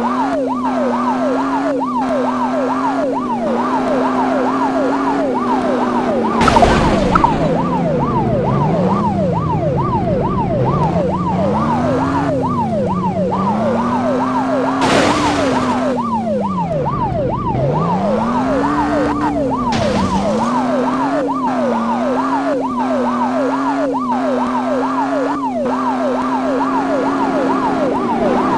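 Police car siren in a rapid yelp, cycling about three to four times a second, over a lower tone that slowly rises and falls. Brief loud rushes of noise come about six seconds in and again about halfway through.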